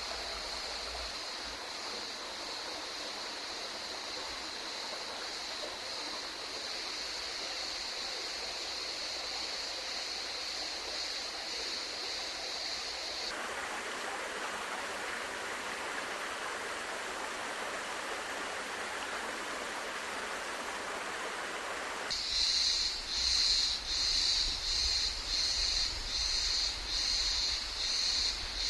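Running water of a rocky stream. It comes with a high, steady buzz at first, changes abruptly to a fuller rushing sound with no buzz about 13 seconds in, and near 22 seconds switches to a high buzz pulsing about twice a second over a low rumble.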